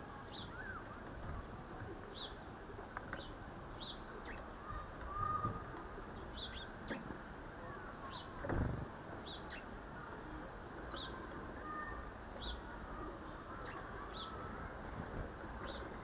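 Small garden birds chirping, short high notes every second or so, over a steady outdoor hiss, with two low thumps about five and eight and a half seconds in.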